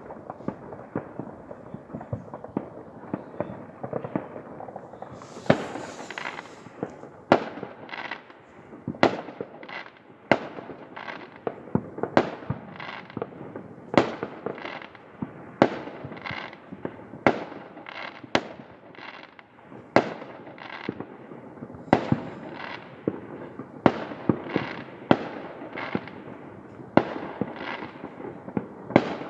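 Many fireworks going off across the city: a steady stream of sharp bangs, often several a second, over continuous crackling, with the bangs echoing.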